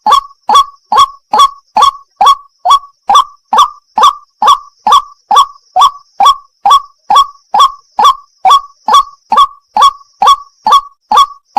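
White-breasted waterhen (wak-wak) call: a steady run of loud, evenly spaced 'wak' notes, a little over two a second, each note short and dropping slightly in pitch.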